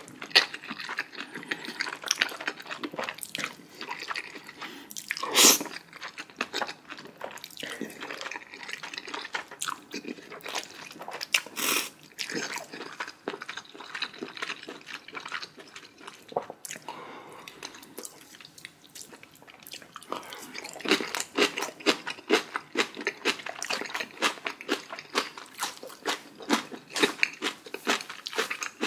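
Close-miked eating of spicy chewy jjolmyeon noodles: wet chewing and mouth sounds, with a few louder sudden noises in the first half and steady, quick chewing over the last several seconds.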